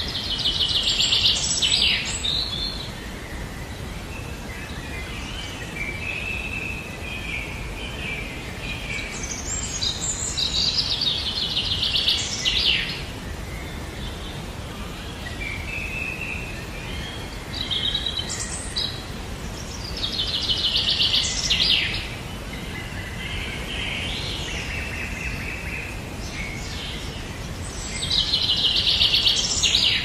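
A songbird singing: about five loud trilled phrases of one to three seconds each, spaced several seconds apart, with softer chirps between them, over a steady outdoor background hiss.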